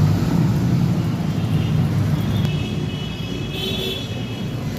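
LG washing machine spinning its drum with a steady low rumble; a faint high tone joins past the middle. The drum hangs to one side and runs badly off-balance.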